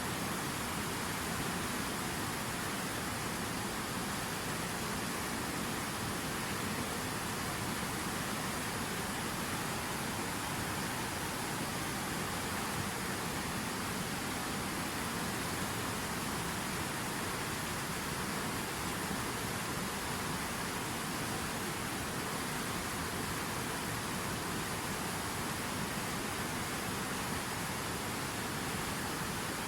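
Waterfall on a river, water rushing steadily in an even roar without breaks.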